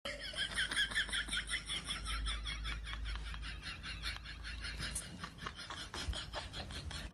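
An animal's rapid, pulsing, high-pitched vocal call, about seven pulses a second, kept up without a break.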